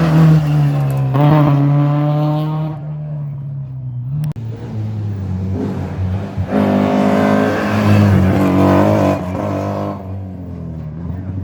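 Rally car engine revving hard under full attack, easing off a few seconds in with a single sharp crack, then revving up hard again before easing near the end.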